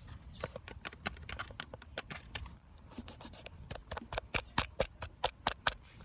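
A quick, irregular series of sharp taps and clicks, several a second, some with a short pitched ring, growing louder in the second half.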